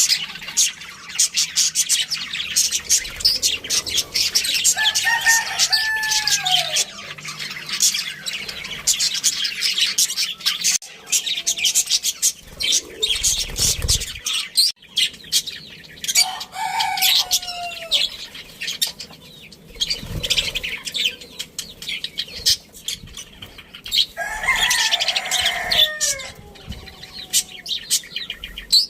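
A flock of budgerigars chirping and chattering continuously in rapid, high-pitched notes, with a few lower, longer falling calls about five seconds in, midway and near the end.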